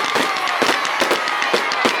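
Fireworks display going off in quick succession: a dense run of bangs and crackles, with a whistle falling in pitch at the start.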